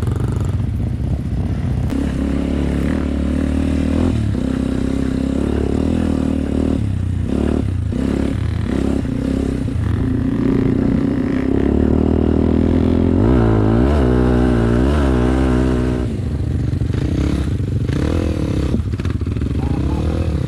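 Dirt bike engine running under a rider, its pitch rising and falling with the throttle, with a harder, louder stretch of revving a little past the middle.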